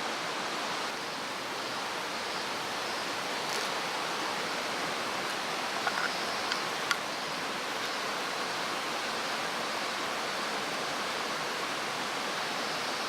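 Mountain stream rushing steadily, with a few faint clicks now and then.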